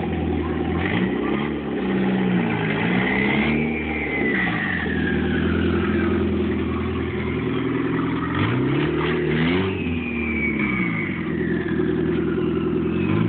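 Turbocharged Honda Integra engine revved twice. After each rev the turbo gives a high whistle that climbs and then slowly falls away as the turbo spools down, while the engine settles back to idle.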